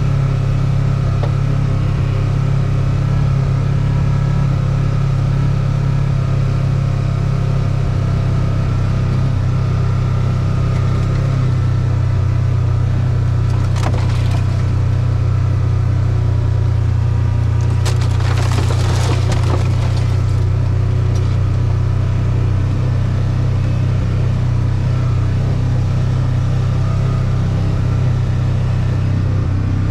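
A motor running steadily with an even low hum, with two short bursts of crackling and snapping, like twigs and branches breaking, about halfway through.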